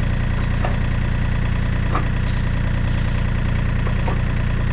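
An engine idling steadily, with a few faint light clicks over it.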